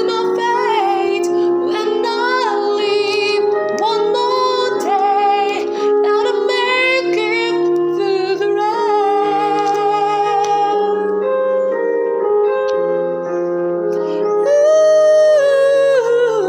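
A song: a woman singing a slow melody with vibrato over sustained keyboard chords.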